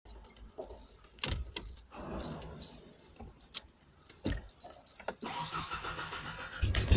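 Keys jangling and clicking in the 1991 Ford Ranger's ignition. About five seconds in a low steady hum comes on, and just before the end a louder low rumble begins as the engine starts to crank.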